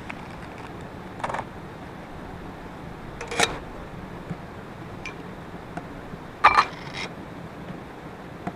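A few short, sharp clinks and knocks, the loudest a quick double one about two-thirds of the way through, over steady background hiss.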